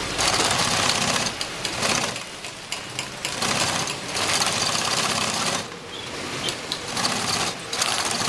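Heavy-duty HIGHTEX 72600 walking-foot big-bag sewing machine stitching in several short runs, stopping and starting again between them.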